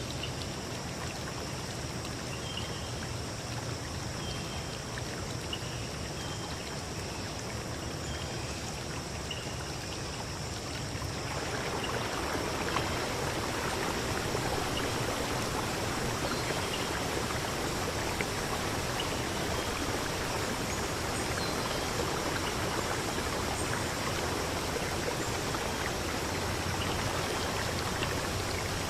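Steady rushing of a flowing river or stream, which turns louder and fuller about eleven seconds in. Faint short bird chirps repeat about once a second over the first several seconds, with a few higher chirps later.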